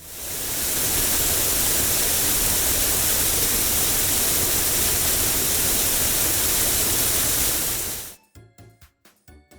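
Car-wash sound effect: a steady rushing hiss that swells in over about half a second and cuts off suddenly about eight seconds in. A few sparse musical notes follow near the end.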